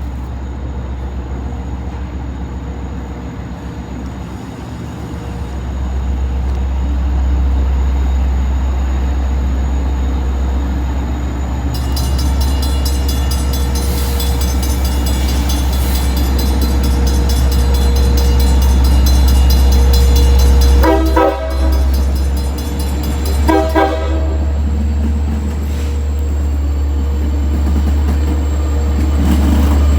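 Long Island Rail Road DM30AC diesel locomotive running with a heavy low rumble that grows louder as it approaches. A grade-crossing bell starts ringing rapidly about a third of the way in. Two short blasts of the locomotive's horn sound about two and a half seconds apart, about two-thirds of the way through.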